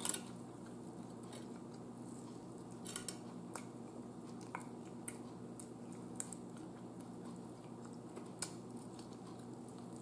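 Faint chewing and biting of a person eating a piece of chicken off the bone, with scattered small mouth clicks, over a low steady hum.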